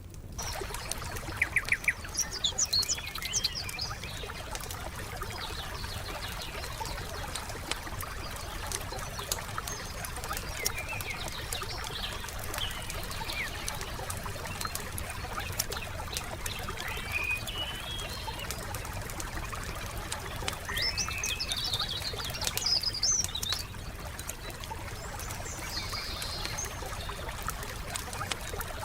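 Wood fire crackling with frequent small pops, and a burst of sharper, louder pops about two seconds in, while small birds chirp and twitter now and then.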